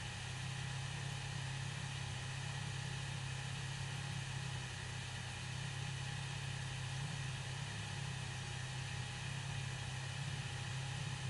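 C6 Corvette's V8 engine running at steady, fairly low revs: a low drone holding one pitch, with no revving or gear changes.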